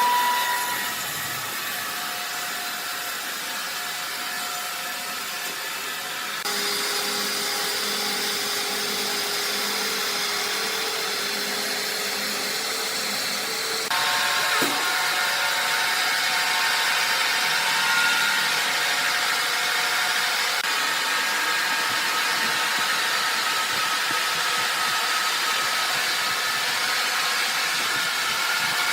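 Sawmill machinery running steadily, a mechanical noise with a few steady tones in it. It changes abruptly about six seconds in and again about fourteen seconds in, getting a little louder each time.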